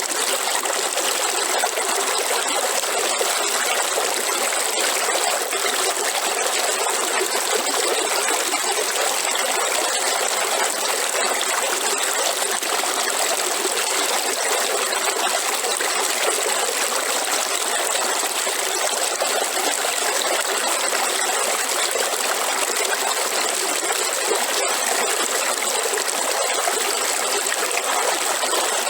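Waterfall: steady rushing and splashing of falling water, unchanging throughout.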